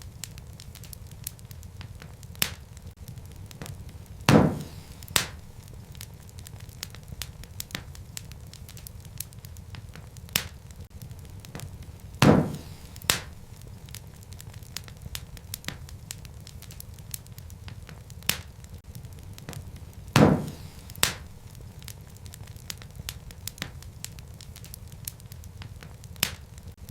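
Wood fire burning in a fireplace: a steady low rumble with frequent small crackles. Louder sharp pops come in pairs, about every eight seconds.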